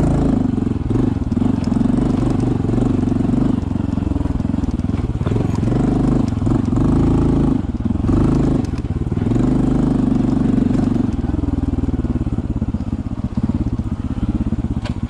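Honda CT125 Hunter Cub's single-cylinder four-stroke engine running as the motorcycle is ridden, the throttle opening and closing so the engine note rises and falls several times. It settles to a lower, uneven note near the end.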